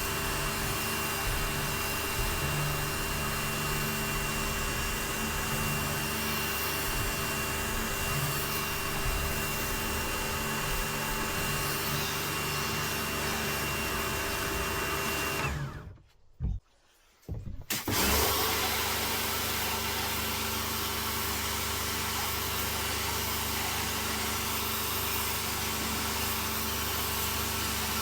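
Pressure washer running steadily, its motor hum under the spray's hiss. It drops out suddenly for about two seconds past the middle, then runs on.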